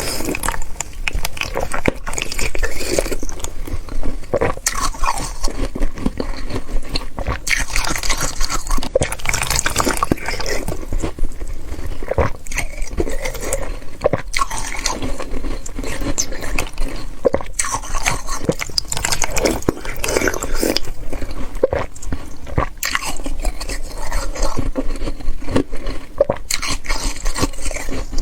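Slushy ice from a water bottle being eaten: wet slurping and crunching, with many small irregular cracks.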